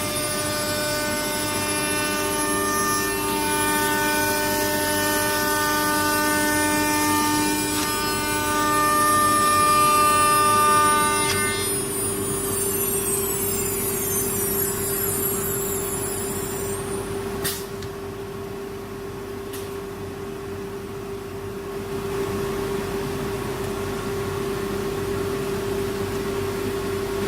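CNC router running with a steady hum under a high spindle whine; about halfway through the whine stops and its high pitches fall away as the spindle slows down, with two sharp clicks a little later while the steady hum carries on.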